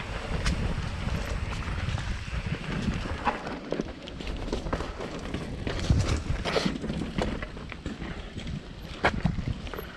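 Commencal Meta Trail 29 mountain bike rattling down a rough trail, with irregular knocks and clatter from the tyres and frame hitting the ground. Wind rumbles on the microphone underneath.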